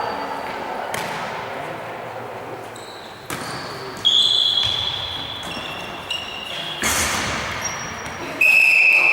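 Tchoukball in play in a sports hall: the ball thumps sharply several times against the floor and frame, and the hall echoes after each hit. High, thin squeaks and tones sound between the hits.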